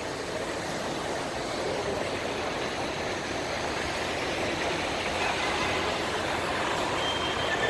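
Steady wash of road traffic noise, slowly growing a little louder, with a faint high tone near the end.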